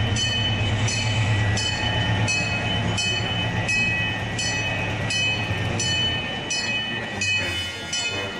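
Miniature park train rolling past at low speed: a steady low running hum with the wheels clicking over rail joints about twice a second, and a thin, steady high whine over the top.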